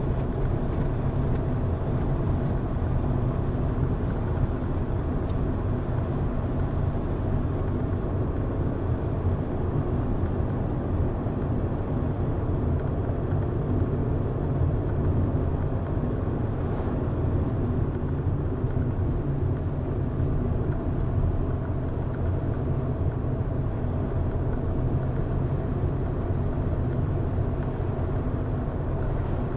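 A car driving at a steady speed: a constant low rumble of engine and tyre road noise, with no changes in speed or gear.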